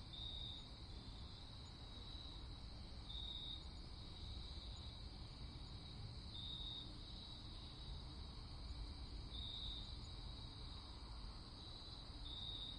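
Crickets trilling steadily and fairly quietly, with a few louder half-second trills standing out now and then, over a faint low rumble.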